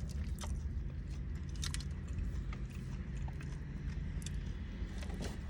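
A person chewing and biting food close to the microphone, with scattered small crunches and mouth clicks, over a steady low hum.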